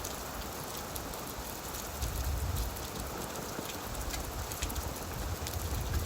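Steady rain falling on leaves, a dense patter with many separate drop ticks. A low rumble rises and falls underneath, strongest about two seconds in and again near the end.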